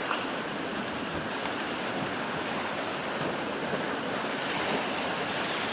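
Sea waves washing on the shore, a steady rush of surf, with wind buffeting the microphone.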